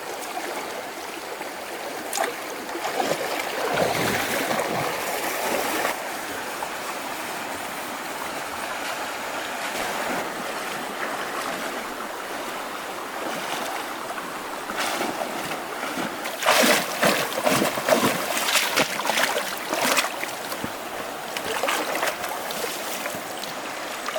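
Flowing stream water, steady throughout, with a run of short, sharp splashes or knocks about two-thirds of the way through.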